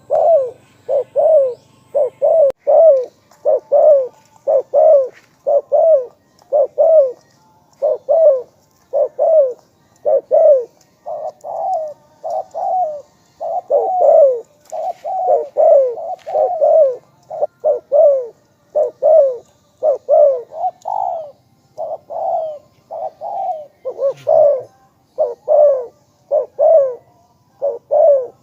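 Spotted dove cooing: a long unbroken series of short, loud coo notes, about one or two a second. It is a calling bird kept to lure wild doves.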